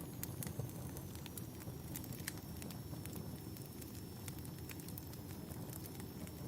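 Bonfire burning: a steady low rumble of flames with irregular sharp crackles and pops from the burning wood, plus a faint thin high whistle held through most of it.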